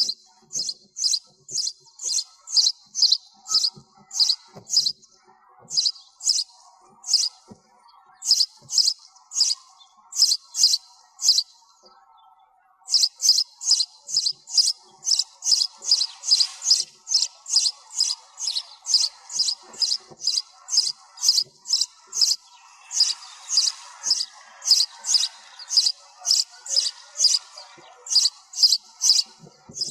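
Sparrow chirping over and over, short high chirps at about three a second in runs, with a pause of about a second near the middle. Fainter chirping sits beneath them.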